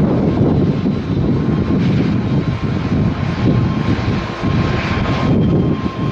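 Jet airliner engines heard from an airport observation deck: a loud, steady rumble with a faint thin whine above it.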